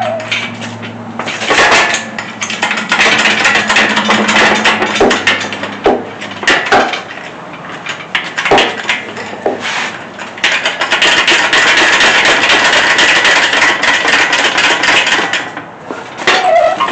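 Metal clanking and knocking as heavy engine parts and tools are handled, with a steady low hum for the first several seconds and a denser stretch of rattling later on.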